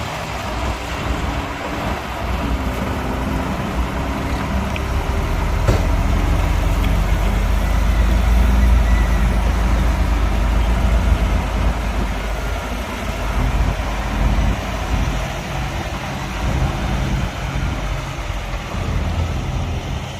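Heavy diesel machinery engines running at a dirt-fill site, a deep rumble that grows louder for a few seconds in the middle and then eases.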